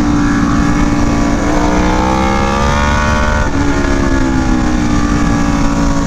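Aprilia Tuono V4 1100 Factory's V4 engine through an SC Project CR-T exhaust, heard onboard at speed with heavy wind noise. The engine note eases, climbs under throttle for about two seconds, drops sharply about three and a half seconds in, then holds fairly steady.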